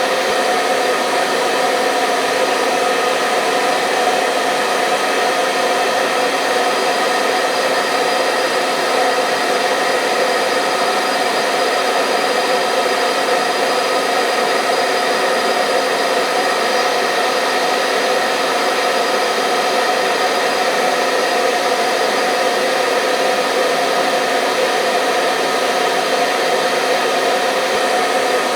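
Hand-held hair dryer running steadily on one setting, a constant whooshing hum with no change in pitch or level, played as white noise to lull babies to sleep.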